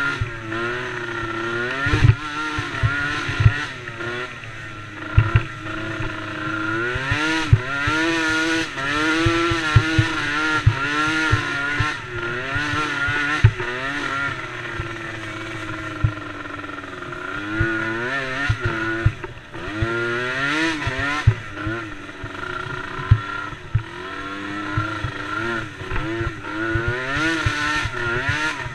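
Small-displacement racing engines revving up and down repeatedly as the throttle is opened and closed. Short knocks and clatter run throughout.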